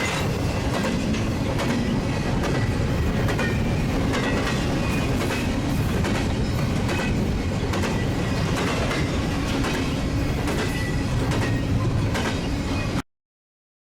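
BNSF intermodal double-stack freight train rolling past, its wheels clicking steadily over the rail joints with thin high squeals now and then. The sound cuts off abruptly about a second before the end.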